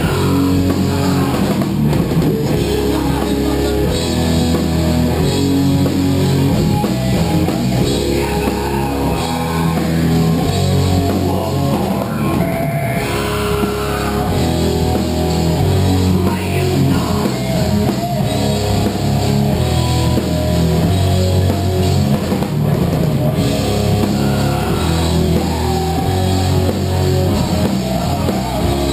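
Rock band playing live, with drum kit and guitar, loud and continuous.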